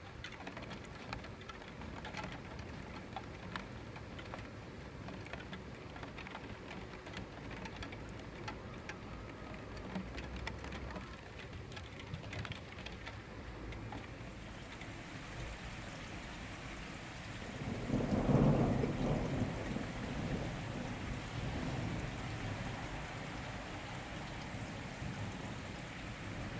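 Steady rain falling during a thunderstorm, with scattered drops ticking. About two-thirds of the way through, a roll of thunder rumbles for a few seconds and then tails off.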